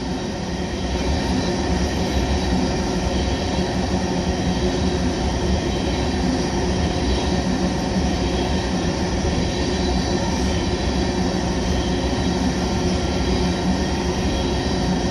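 Loaded oil tank cars of a long freight train rolling past, a steady noise of steel wheels running on the rails.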